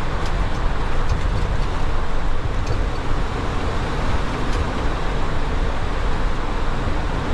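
Steady in-flight cockpit noise of a Boeing 737: a constant low roar of airflow and engines, with a few faint ticks.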